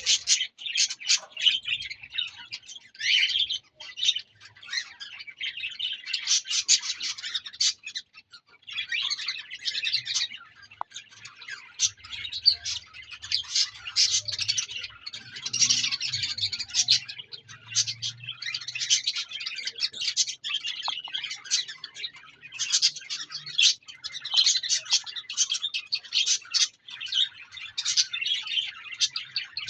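Small pet parrots chattering and chirping continuously: a dense stream of quick, high chirps with hardly a pause.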